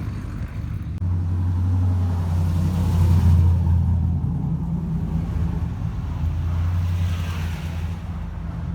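A pickup truck's engine running with a deep, steady note as it drives close by. It comes in about a second in, is loudest around three seconds, then slowly eases off.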